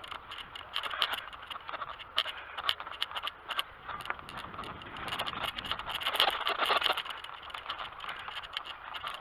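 BMX bicycle rattling and clicking as it rides over rough ground, with tyre noise underneath; the rattling gets louder for a couple of seconds about six seconds in.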